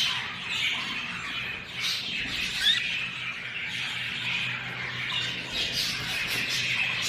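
Budgerigars chattering and squawking continuously, many short warbled calls overlapping, with one sharper, louder chirp about two and a half seconds in.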